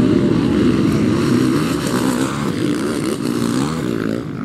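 Several motocross motorcycle engines revving, their pitch constantly rising and falling as the riders work the throttle.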